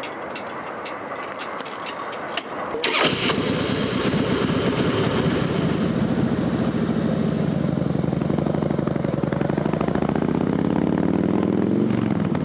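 A motor vehicle engine starts about three seconds in after some faint clicks, then runs steadily. Its pitch rises near the end before dropping.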